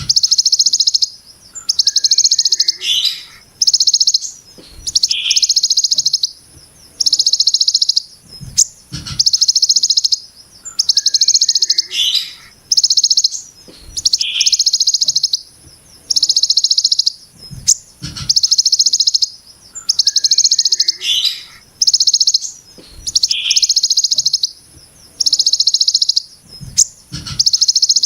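Ciblek gunung (a prinia) repeating its harsh, dense buzzing 'brem' trill. Each trill lasts about a second and comes about every second and a half, with short lower chip notes between. A few soft low thumps also sound.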